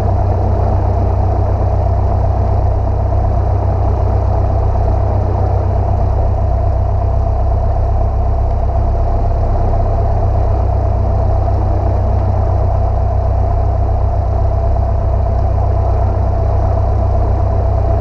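Steady drone of a single-engine light aircraft's piston engine and propeller, running evenly with no change in pitch or level.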